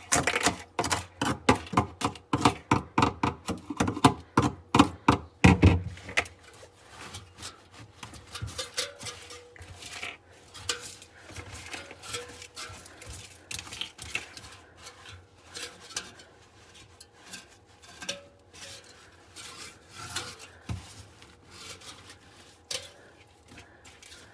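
Thick ice being chipped and scraped out of a refrigerator freezer compartment: rapid knocking for the first six seconds or so, then quieter scraping and occasional taps. The ice has built up because the speaker suspects the defrost system is faulty.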